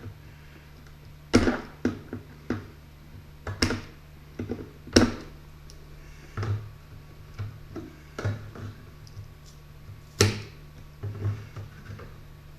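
Irregular sharp knocks and clunks of hand tools being picked up and set down, four of them loud among softer taps, over a steady low electrical hum.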